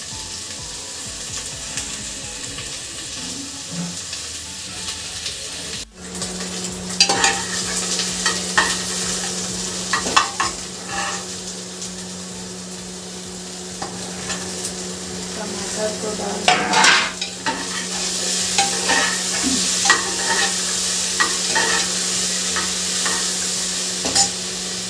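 Spices and chopped vegetables frying in hot oil in an aluminium pressure-cooker pot, with a steady sizzle. A metal spatula scrapes and clinks against the pot as it is stirred. The sound drops out briefly about six seconds in.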